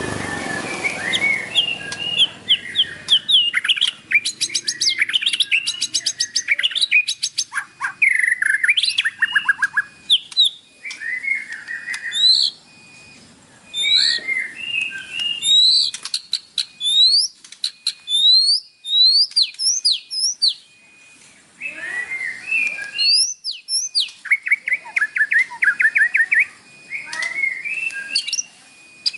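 White-rumped shama singing a fast, varied song of rapid trills, rising whistles and quick chattering phrases, broken by short pauses twice.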